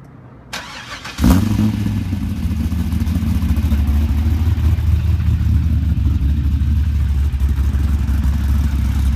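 Chevrolet C5 Corvette's 5.7-litre LS V8 cranked by its starter and catching about a second in with a loud flare of revs, then idling steadily. It breathes through a custom exhaust with large-case 3-inch Magnaflow mufflers and side exits.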